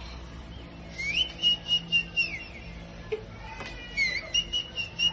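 A warbling whistle, heard twice. Each time it slides up, holds a high note that pulses about four times a second, then slides down.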